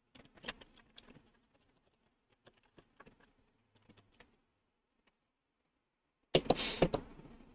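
Computer keyboard and mouse clicks, scattered and light, then a short, much louder burst of clattering knocks and rustle near the end.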